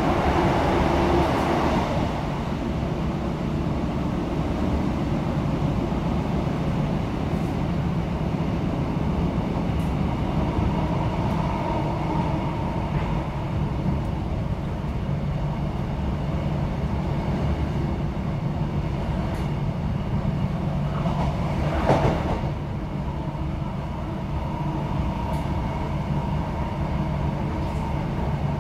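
Interior noise of a British Rail Class 156 Super Sprinter diesel multiple unit running at speed: the underfloor six-cylinder Cummins diesel and wheel-on-rail rumble, steady throughout. It rushes louder for the first two seconds, and there is one sharp clunk about 22 seconds in.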